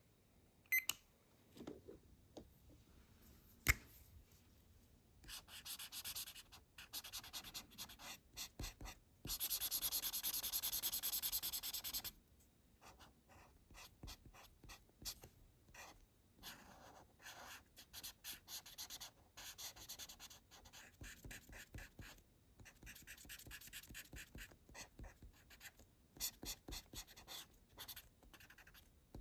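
Marker tip stroking on paper in short scratchy strokes, with a denser, louder run of continuous back-and-forth colouring lasting about three seconds, starting about nine seconds in. Two sharp clicks sound in the first few seconds.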